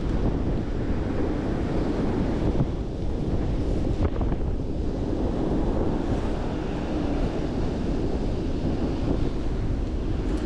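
Strong wind blowing across the microphone, a steady low rumble throughout, with a faint tick about four seconds in.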